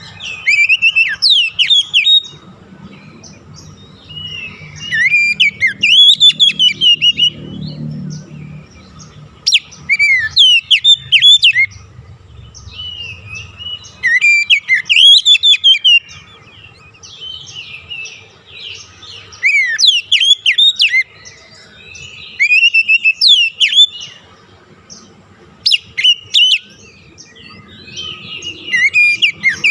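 Oriental magpie-robin (kacer) singing: loud phrases of quick, sweeping whistled notes, repeated every few seconds with short pauses between, over a faint low hum.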